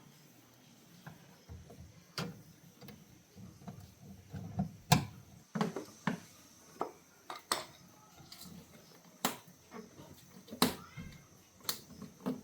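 Handling of tools and parts during repair work: a series of sharp clicks and knocks at irregular intervals, about one a second.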